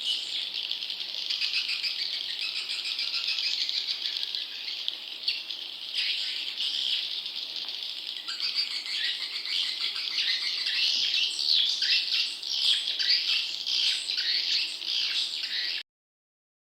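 Dense, overlapping twittering of small songbirds: rapid high chirps with no pause. It stops abruptly about a second before the end.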